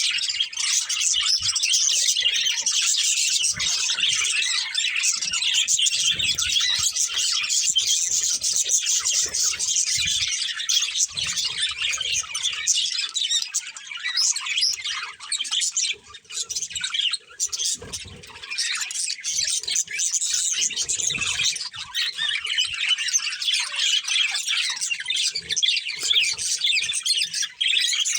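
Budgerigars chattering and chirping without pause, a dense stream of quick, high chirps and warbles, with a brief lull about sixteen seconds in.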